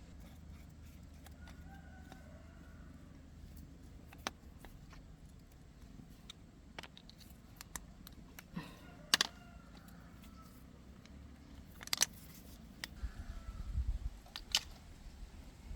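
Scattered clicks and knocks of tools and parts being handled during repair work, the loudest about nine and twelve seconds in, over a low steady rumble.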